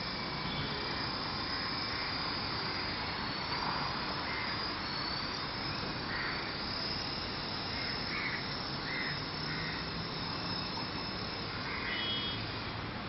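Small toy helicopter's electric motor and rotor running with a steady whir and a high whine that wavers slightly in pitch.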